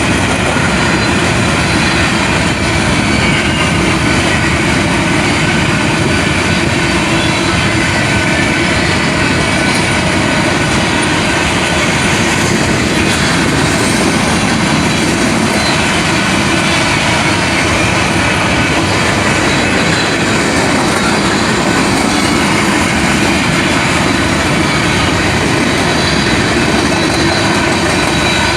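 A train rolling past close by on the rails, a steady, loud rumble of wheels and cars that does not let up.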